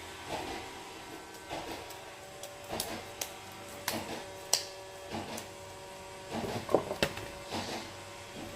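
Irregular handling noises from slime and plastic containers being worked: short soft rustles with a few sharp clicks.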